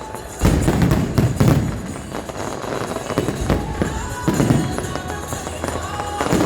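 Aerial fireworks shells bursting one after another, with deep booms and crackle. The heaviest bursts come about half a second in and again around a second and a half.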